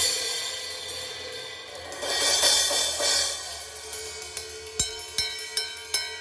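Drum kit being checked: cymbals washing and swelling in the first half, then a quick run of sharp strikes on drums and cymbals, two of them deep, like kick-drum hits.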